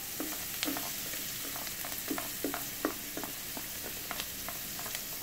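Chopped onion, bird's eye chillies and garlic sizzling in melted butter in a wok, a steady hiss, with scattered light taps and scrapes as a spatula pushes them off a plastic chopping board into the pan.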